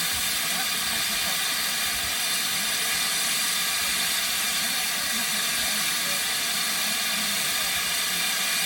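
Steady, even hiss with faint indistinct sounds underneath.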